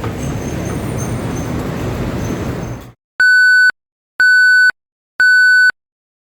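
Street traffic noise until about three seconds in. The sound then cuts to dead silence, followed by three identical electronic beeps, each about half a second long and one a second apart.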